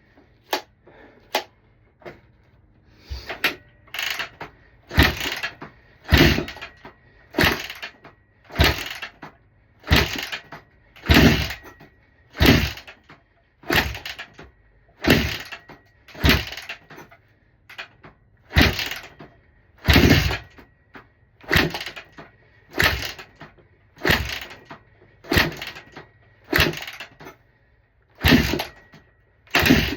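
Honda CRF150R dirt bike being kicked over again and again, a short burst with each kick about every second and a half. The engine turns over but never catches and runs. A faint steady high tone runs underneath.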